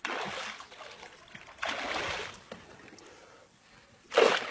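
River water splashing in three bursts, the last near the end the loudest, with quieter sloshing between.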